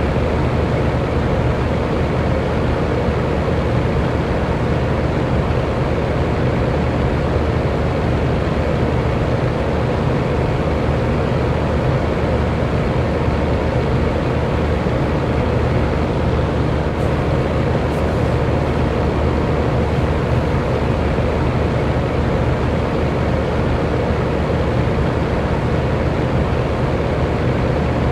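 Electric fan running steadily: an even airy whoosh with a faint motor hum, unchanging throughout.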